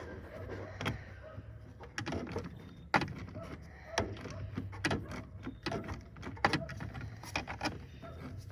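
Irregular sharp metal clicks and knocks, about one or two a second, from hand tools working the battery hold-down and terminal hardware.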